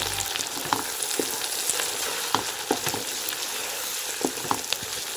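Chicken chunks, carrots and cabbage sizzling in an oiled wok as a wooden spatula stirs them, with scattered clicks and scrapes of the spatula against the pan.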